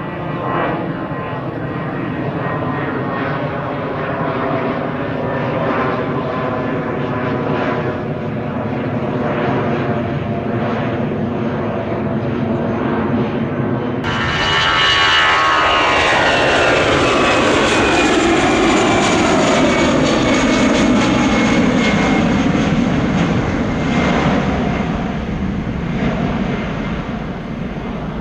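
Jet airliner engines. First a steady engine whine made of several held tones; then, about halfway through, a louder jet passes by with its engine pitch sliding steadily down as it goes.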